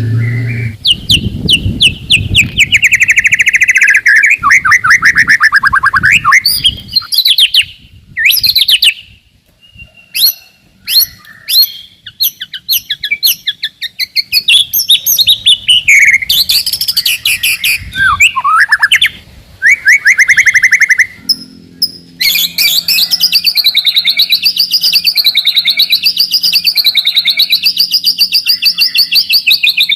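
White-rumped shama singing loudly in quick, varied phrases of fast trills and whistles with short breaks. About two-thirds of the way through it goes into one long rapid trill that wavers up and down in pitch. This dense, rapid-fire song is the kind bird-keepers play to provoke rival shamas.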